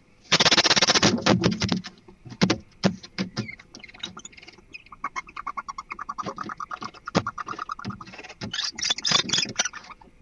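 Barn owls calling to each other as a pair: a loud hissing screech about a second long at the start, then a long run of rapid ticking, chittering calls, and harsher hissing calls near the end.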